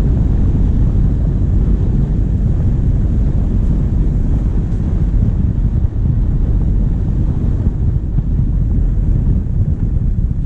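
Diesel engine running steadily while driving, mixed with wind rumbling on a bonnet-mounted camera's microphone.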